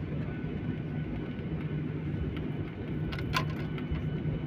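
Steady low hum of an airliner's engines and cabin while it taxis, heard from inside the cabin. A short sharp clink or rattle about three seconds in.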